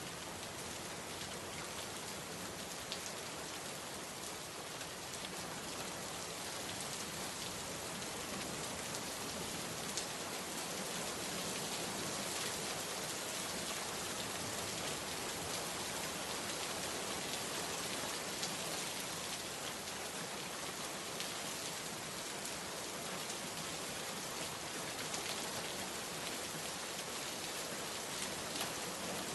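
Steady rainstorm pouring onto surfaces: a dense, even hiss of rain with scattered sharper drop ticks.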